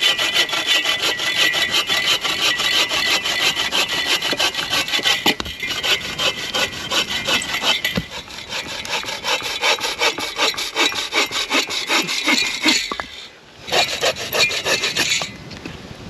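Folding bow saw (a Sven saw) cutting through a dead tree trunk with steady, rhythmic back-and-forth strokes. The strokes pause briefly near the end, resume for a few more, then stop.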